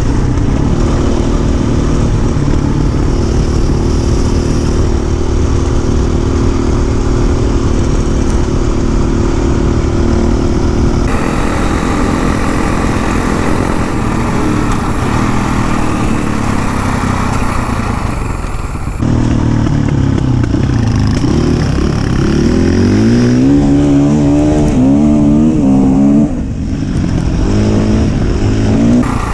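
Dirt bike engines running under way, heard in several cut-together stretches. In the last part the engine revs up in repeated rising steps.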